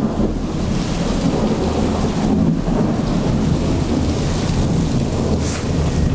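Heavy rain pouring steadily, with a continuous low rumble of thunder underneath and no sharp strike.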